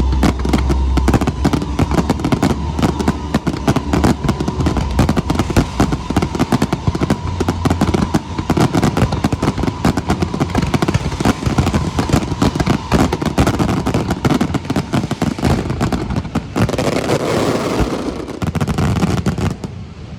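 Fireworks going off densely: rapid crackling and popping over low booms, tapering off near the end.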